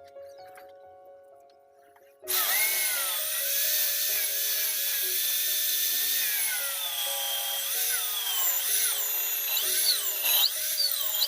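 Background music with a simple melody throughout. About two seconds in, a handheld power tool starts up loudly, a hissing, high-pitched whine that rises and falls in pitch as it is worked against the material.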